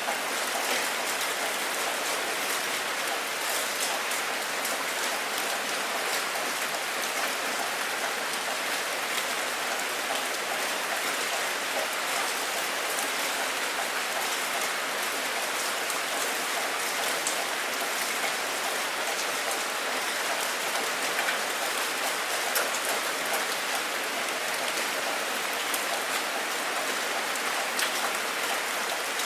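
Steady rain falling, an even hiss with many fine drop ticks and no letup.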